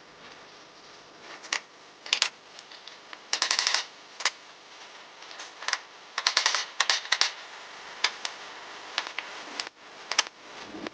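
Sharp clicks and knocks in an irregular pattern, some single and some in quick rattling runs, as of hand tools working on metal rain-gutter parts.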